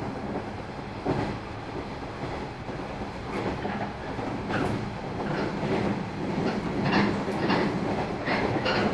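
Running sound of a JR 113 series electric train, heard from inside a KuHa 111 driving trailer car: a steady low hum with wheels clacking over rail joints. The clacks come more often and a little louder from about three seconds in.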